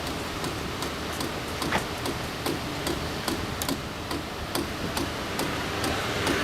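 Light, irregular tapping clicks, about two or three a second, over a steady low rumble.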